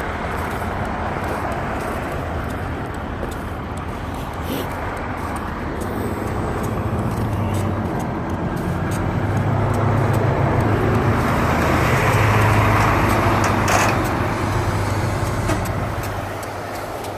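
Motor vehicle engine and road noise, a steady low hum that grows louder midway and eases off near the end.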